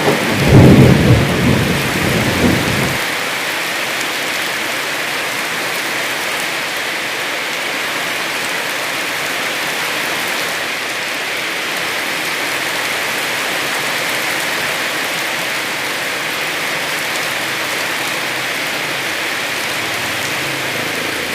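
Heavy rain falling steadily, with a low rumble of thunder at the start that cuts off suddenly about three seconds in, leaving the even hiss of the downpour.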